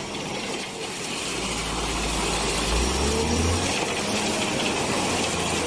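An engine running steadily with a low rumble that comes in about a second in and grows slightly louder.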